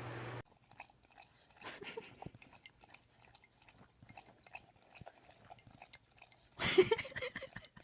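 An animal chewing: irregular soft crunching clicks, louder for about a second near the end.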